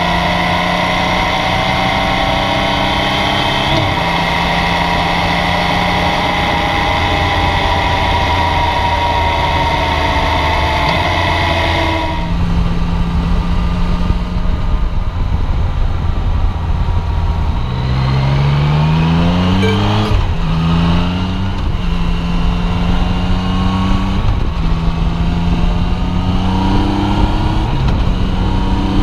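Yamaha Tracer 900's 847 cc inline-three engine running on the move. It holds a fairly steady note at first; after a sudden change in the sound about twelve seconds in, it pulls up through the gears, the pitch rising and breaking at each shift.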